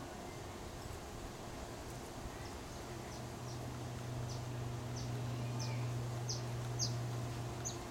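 A bird chirping: short, high, falling chirps repeated about every two-thirds of a second, growing louder. Under them runs a low steady hum that gets louder from about halfway through.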